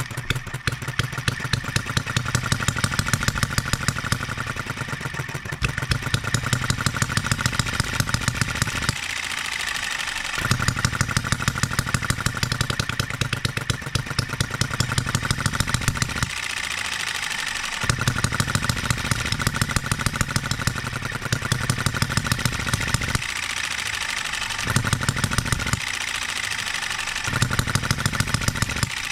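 Enjomor 6cc hit-and-miss model engine catching and running. It fires in stretches of rapid, regular strokes, then coasts for about a second without firing, about five times. This is the governor holding it out of fire, the hit-and-miss cycle.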